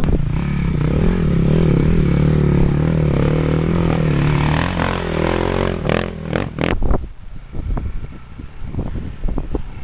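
Dirt bike engine running at a steady pitch, then changing pitch about five seconds in, followed by a few sharp clacks and a quieter stretch with scattered light knocks.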